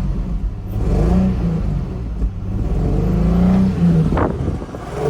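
2004 Infiniti G35's 3.5-litre V6 revved in park, engine pitch rising and falling in a few swells through the exhaust. A brief click comes about four seconds in.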